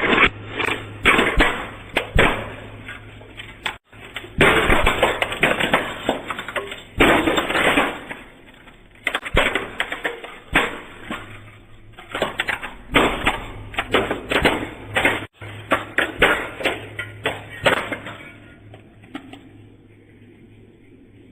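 Objects crunching, cracking and breaking under a car's tyres in quick, repeated bursts over a steady low hum. The sound cuts out abruptly twice and dies away in the last few seconds.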